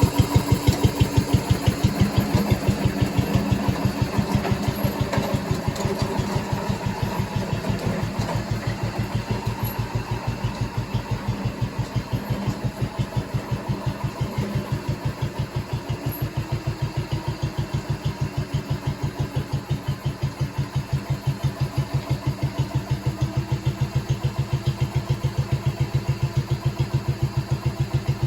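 Garden tractor engine running steadily at a constant speed, with an even, fast pulse.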